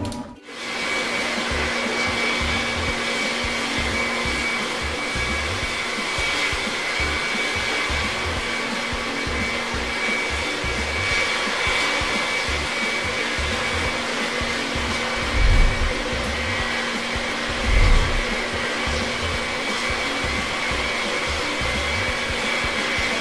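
Jet-plane engine sound for a flying toy plane: a steady whooshing hiss with a high whine and a lower hum. Two dull low thumps come past the middle.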